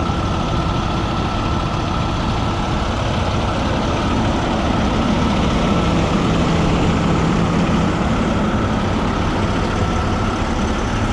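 Heavy diesel truck engine idling close by, a loud steady running sound.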